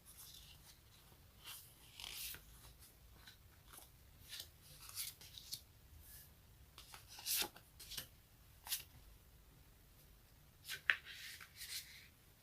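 Something sticky being peeled apart by hand: short, irregular crackling strokes, the loudest a sharp crackle near the end.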